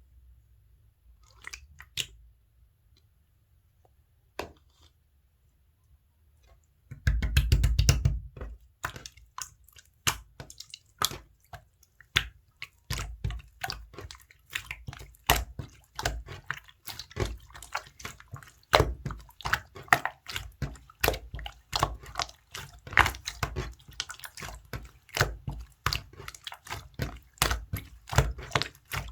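Clear slime being squeezed, stretched and pressed by hand, making wet, sticky clicks and pops. After a few faint clicks, the popping starts in earnest about seven seconds in and keeps going densely and irregularly, several pops a second.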